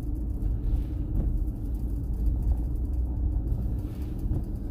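Steady low rumble of a car driving: engine and road noise with no distinct events.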